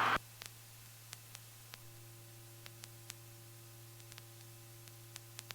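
Faint, steady electrical hum with scattered soft ticks on an aviation headset intercom feed, after the audio cuts off sharply just after the start; the helicopter's engine and rotor are not heard.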